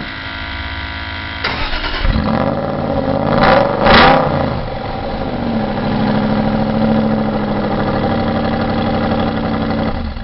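Car engine running, revved quickly twice about three and a half seconds in, then running steadily again.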